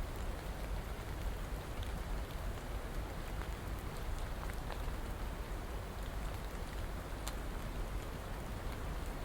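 Steady rain falling, an even hiss with a deep low rumble and scattered sharp ticks of single drops hitting a surface.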